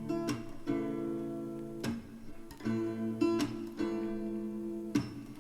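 Background music: a guitar playing ringing chords, struck about six times, with no singing.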